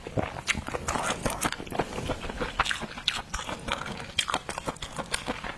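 Close-up wet chewing and mouth smacking, a person eating shellfish meat, with many irregular short clicks and crunches.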